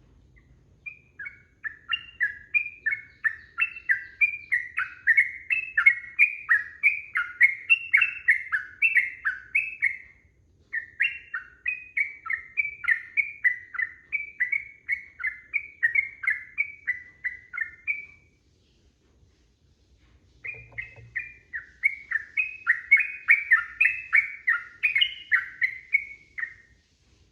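Yellow-vented bulbul (trucukan) singing a long, fast, bubbling chatter of repeated liquid notes. The song comes in two long runs, with a pause of about two seconds about two-thirds of the way through.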